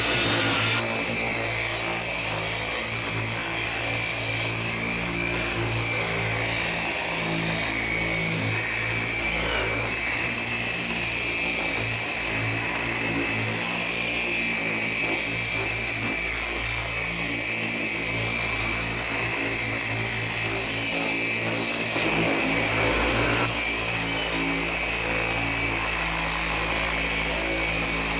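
Electric paint polisher running steadily while buffing the car's badge and paintwork, with a short rise in loudness at the start and again about two-thirds of the way through.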